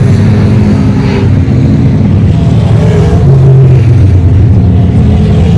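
Race car engines running loud and steady, their pitch wavering up and down.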